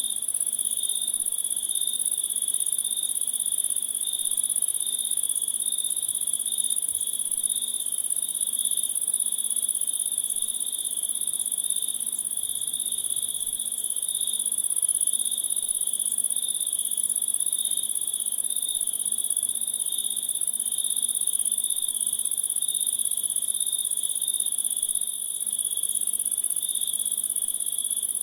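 Steady chorus of crickets and other insects: a high, shrill continuous band layered over a lower, pulsing trill.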